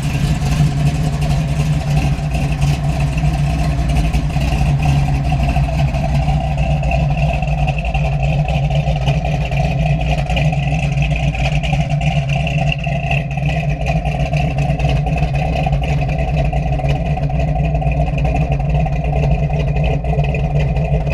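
1970 Dodge Challenger's 505 cubic inch Street Wedge big-block V8, carbureted and running steadily at a constant engine speed with no big revs.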